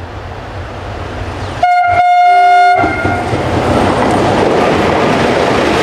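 Diesel locomotive sounding its horn in two blasts, a short one and then a longer one of under a second, over the rumble of the approaching train. After the horn the train's rumble is louder and steady.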